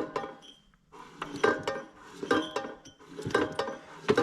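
Kohler K241 single-cylinder engine being turned over by hand with its crankcase open, giving clusters of metallic clicks and clinks about once a second. It spins freely, with no binding, after reassembly with new piston and rings.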